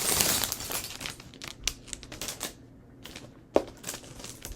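Plastic Lego parts bag rustling and crinkling as pieces are sorted through, followed by scattered small plastic clicks of bricks being handled, with one sharp click about three and a half seconds in.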